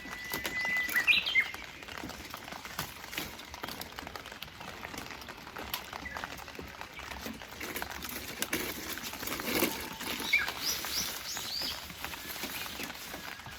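Songbird calling over light rain patter: a held whistle that breaks into quick rising notes about a second in, then a run of short high chirps around ten seconds in.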